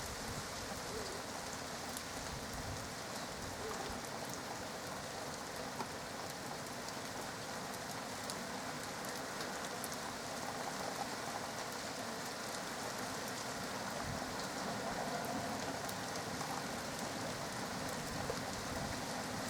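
Steady rain falling in a thunderstorm: an even hiss flecked with many small drop ticks.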